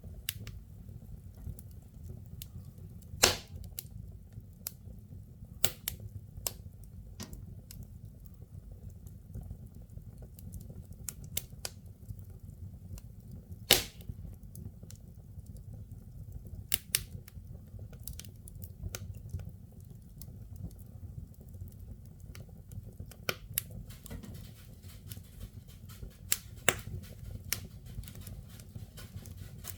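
Firewood burning in a fireplace, crackling with scattered irregular pops, two sharp loud snaps about 3 and 14 seconds in, over a steady low rumble.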